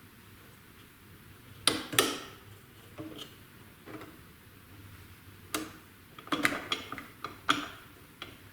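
Sharp metal clicks and clinks as a band-saw blade is worked into the blade guides of a portable metal band saw: a pair of loud clicks about two seconds in, a few lighter ones, then a quick cluster of clicks in the second half.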